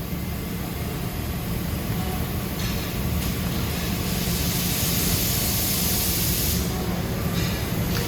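Amada HG 1303 robotic press brake cell running: a steady low machine hum, with a hiss of air rising and holding for about four seconds in the middle.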